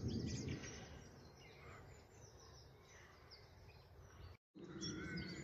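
Faint woodland birdsong from several songbirds, thin high chirps and whistles over a soft background hiss, with a common nightingale's whistled notes coming in near the end. The sound cuts out completely for a moment shortly before that.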